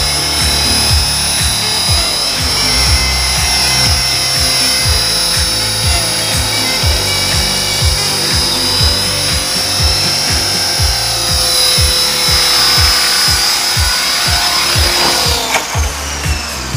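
Small electric remote-control helicopter's motor and gears whining steadily, with music playing. About fifteen seconds in the whine stops and slides down in pitch as the motor winds down.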